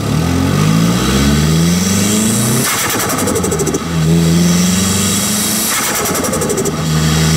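Nissan Silvia S15's turbocharged SR20 engine with a T28 turbo, heard right at the turbo's pod filter. It pulls with rising pitch for about two and a half seconds, then the throttle closes and the turbo flutters with a rapid chatter (compressor surge). It builds again and flutters once more near the end.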